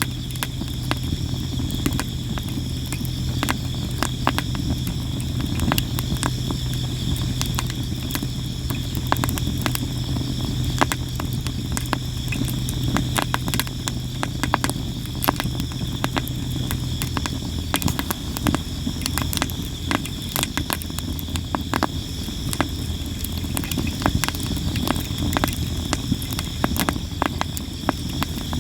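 Campfire of sawara cypress wood crackling constantly, with frequent sharp pops and snaps. Insects chirp steadily behind it, over a low steady hum.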